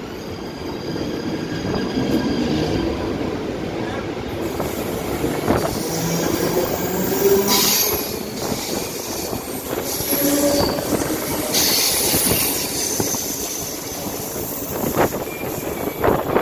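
Mumbai suburban local trains (electric multiple units) running, with steady wheel-on-rail rumble as another local passes close alongside. Patches of high wheel squeal come about halfway through and again a few seconds later, with a few sharp clacks over the rail joints, heard from an open train doorway.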